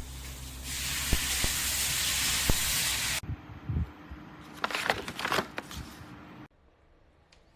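A loud, steady hiss lasting about two and a half seconds, then a run of sharp crackling clicks, after which the sound cuts off suddenly.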